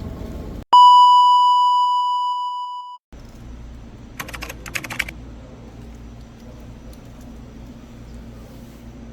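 A loud, steady electronic beep tone of about two and a half seconds that fades slightly and cuts off abruptly. It is followed by a quick run of sharp clicks over a low steady hum.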